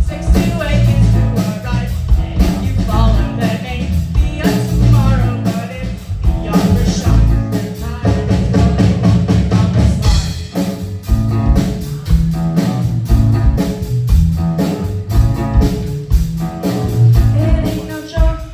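Live rock band playing a song, with drum kit, electric guitar and bass, and a female lead singer.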